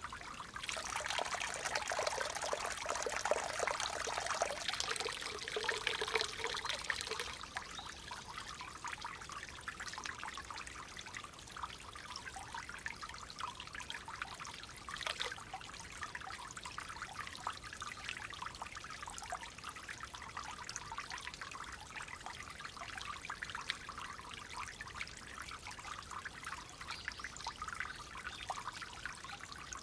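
Clear water trickling and gurgling in a gently flowing stream, a little louder for the first several seconds and then settling to a steady flow.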